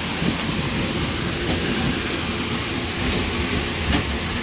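Class S9 diesel multiple unit running along the track, heard from inside the driver's cab: a steady rumble of engine and running noise with an even hiss over it.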